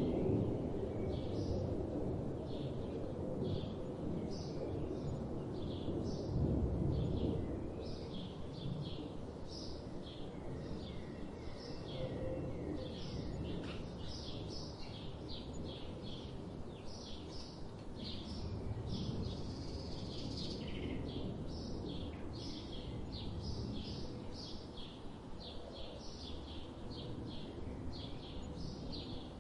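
Small birds chirping and twittering in quick, overlapping calls throughout, over a steady low background rumble that swells briefly about six seconds in.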